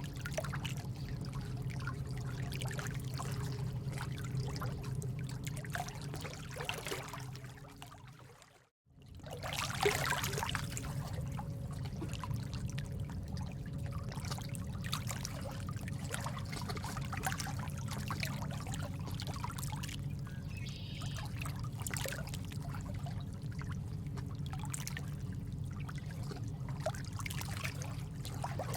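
Steady trickling, running water with many small drips and splashes. It fades down to silence about eight and a half seconds in, then comes straight back, like a looped ambience track restarting.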